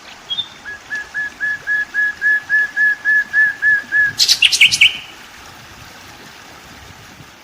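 A bird calling: a run of about a dozen identical short notes at one pitch, about four a second, followed by a brief sharp, louder chirp.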